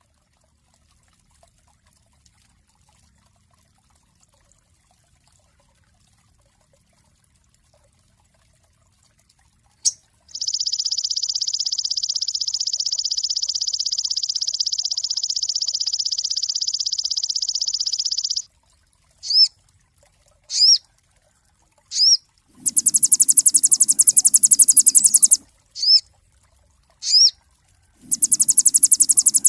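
Sogon songbird singing. After about ten seconds of near silence comes a long, rapid, high trill lasting about eight seconds. Single sharp downward-sweeping chirps then alternate with two loud buzzy trills.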